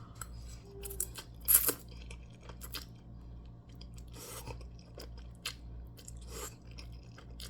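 A person chewing and eating food close to the microphone: scattered small mouth clicks and crunches, with one louder crunch about a second and a half in.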